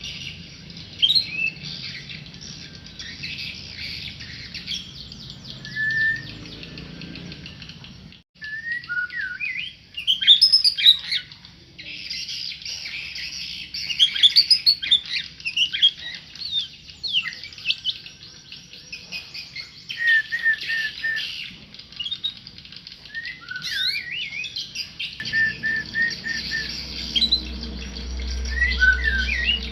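Tame murai songbird singing a long, varied song of clear whistles, quick rising and falling slurs and short chirps. A low hum joins in near the end.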